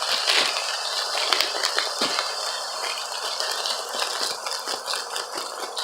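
Kitchen rattling and scattered clicks over a steady sizzling hiss, as ground beef cooks and seasoning is added.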